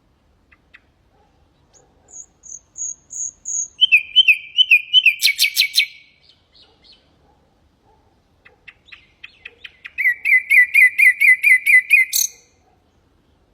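Nightingale singing two phrases of fast repeated notes. The first opens with a short run of high whistles. The second ends in a sudden rising note.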